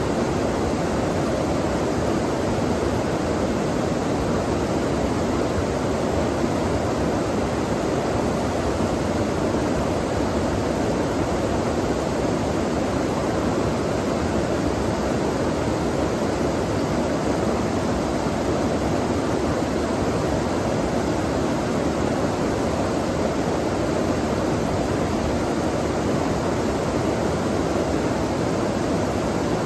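Flowing stream water rushing in a steady, even wash with no breaks.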